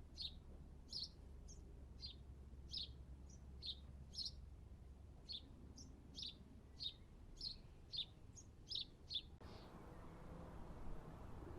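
A small garden bird chirping in a steady run of short, high calls, about two a second, which stops suddenly about nine seconds in.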